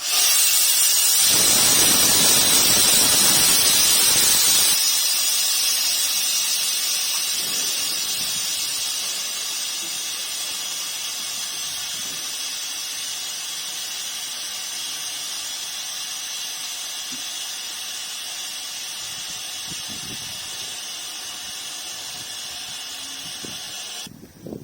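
Compressed air hissing out of a rig of railway brake cylinders as the pressure is released to lift them. It starts suddenly and is loudest for the first few seconds, then weakens into a long steady hiss that cuts off near the end.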